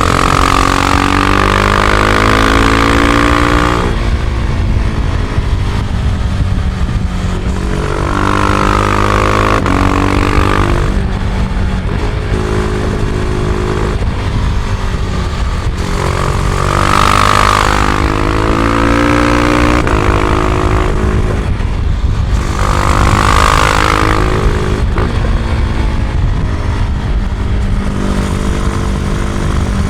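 Husqvarna Vitpilen 701's single-cylinder engine through its stock exhaust, riding with the revs rising and falling in repeated spells of acceleration and easing off. A constant low rumble of wind and road sits under it, heard from a recorder in the rider's backpack.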